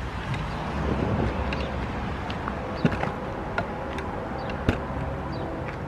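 A train running by, a steady low engine drone with a few sharp clicks, the two loudest about three seconds in and near the end.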